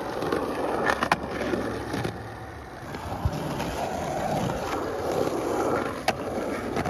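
Skateboard wheels rolling on concrete with a steady grinding rumble, broken by a few sharp clacks of the board about a second in, near three seconds and near six seconds.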